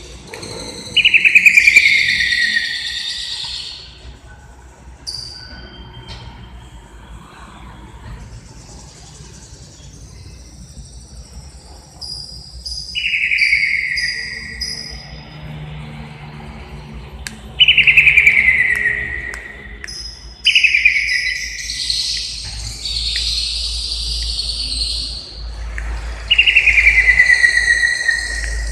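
Green leafbird (cucak ijo) singing: loud descending whistled notes, each sliding down over a second or two, repeated five times, with short higher chirps between them.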